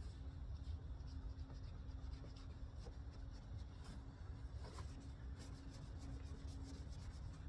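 Faint scratchy rubbing of a pad or wipe worked over a plastic headlight lens, in short irregular strokes. A low rumble of background noise runs under it.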